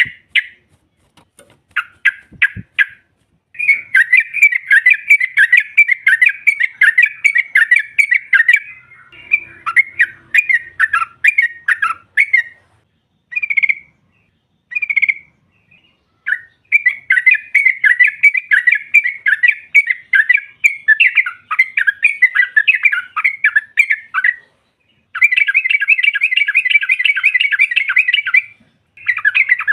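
Yellow-vented bulbul (trucukan) calling in rapid, chattering runs of notes broken by short pauses: the excited call of a female bulbul, played as a lure to draw answering birds.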